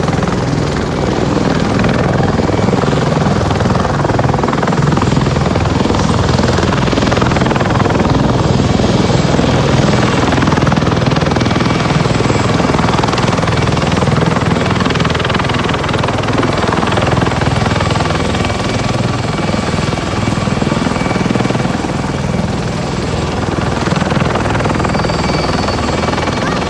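Helicopter flying at an air show display, its rotor and turbine noise loud and steady with a throbbing low end.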